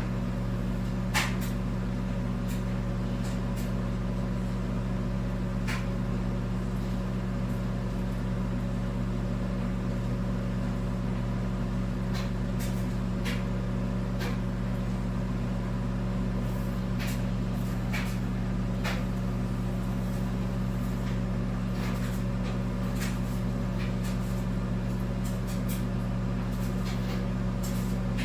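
1,000-watt microwave oven running on high with a steady hum while it cooks an ear of corn in the husk, with a few short sharp ticks scattered through.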